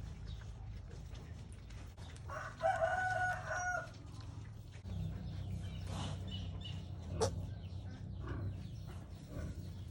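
A rooster crows once, a drawn-out call of about a second and a half, over a low steady hum. A brief sharp sound comes about seven seconds in.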